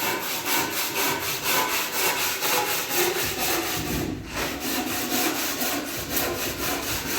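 A hand tool worked in quick back-and-forth strokes, about four a second: a rasping, sawing scrape against a hard surface, with a short break about four seconds in.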